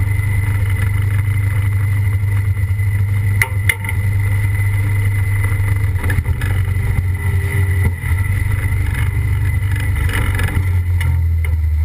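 Competition pulling tractor's engine running flat out under load as it drags the weight sled, heard from the sled: a loud, steady low drone that dips briefly twice, a few seconds in and again about two-thirds through.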